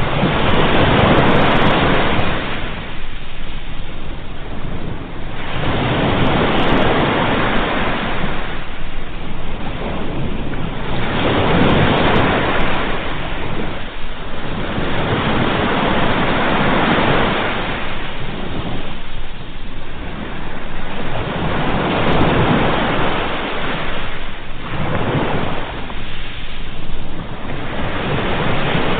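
Ocean waves breaking and washing up the shore, a new surge swelling and falling away about every four to five seconds.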